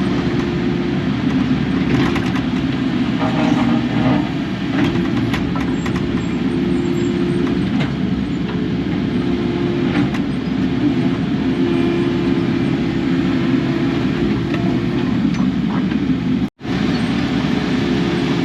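Kubota KX080 excavator's diesel engine running steadily under work, a continuous drone with a humming tone on top that swells and fades, and a few light clanks. The sound cuts out for an instant near the end.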